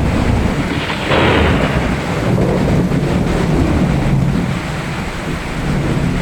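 Steady heavy rain with rolling thunder rumbling underneath, swelling into a louder peal about a second in.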